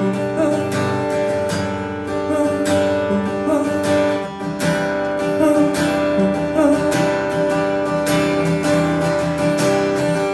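Acoustic guitar strumming chords in an instrumental break of a song.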